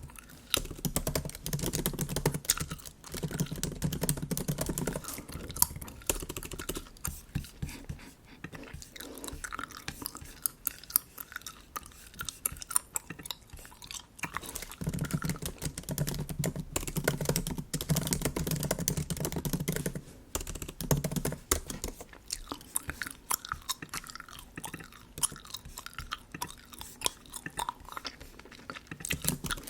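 Close-miked chewing of bubble gum, with wet mouth clicks throughout and heavier chewing in two stretches. Light clicks of MacBook keyboard keys are mixed in.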